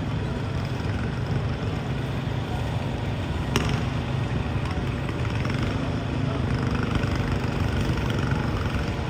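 Garden pulling tractor engine running steadily, with a single sharp click about three and a half seconds in.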